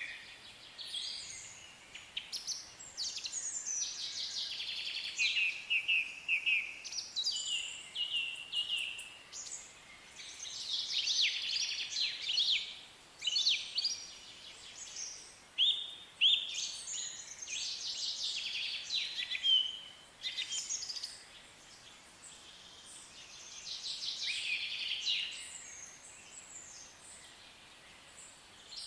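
Songbirds singing: a string of quick chirping and trilling phrases, one after another with short pauses, dropping to quieter song in the last several seconds.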